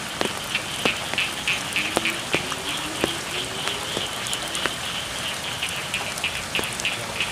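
Steady rain falling on a rice field, with frogs calling in a fast, even, high-pitched pulsing chorus and scattered sharp ticks of drops.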